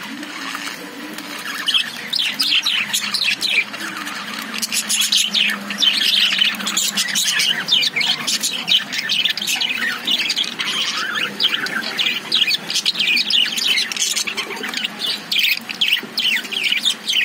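Several caged budgerigars chattering together, a dense run of overlapping short chirps and squawks with no pause.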